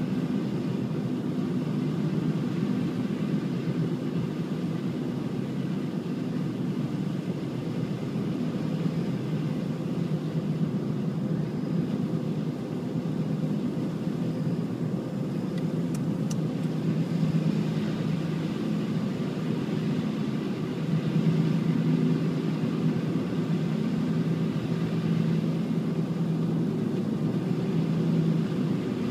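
Steady engine hum of a running motor vehicle, holding an even pitch throughout.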